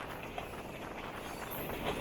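DEMU train running along the track: a steady rumble and rattle with scattered light clicks, and a sharper click near the end.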